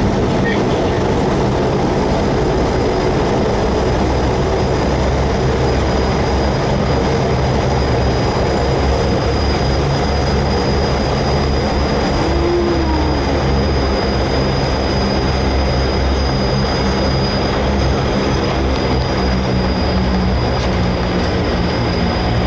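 Cabin noise of a Cessna 208B Caravan's turboprop engine and propeller: a steady loud drone with a thin high turbine whine above it, as the plane comes in to land.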